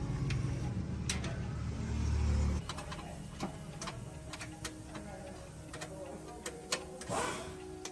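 Truck engine running with a low rumble that swells briefly and then cuts off suddenly between two and three seconds in, followed by scattered light clicks and taps.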